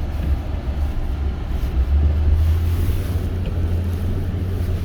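Steady low rumble of a Toyota Tundra pickup driving, its engine and road noise growing a little louder about two seconds in.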